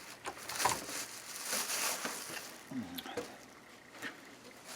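Handling noise: rustling with several light clicks and knocks as things are moved about by hand, and a brief low murmur near the end.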